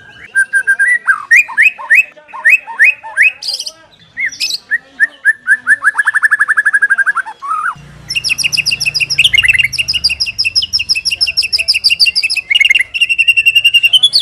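White-rumped shama singing: a loud, varied song of rapid runs of repeated whistled notes and fast trills, changing phrase every few seconds.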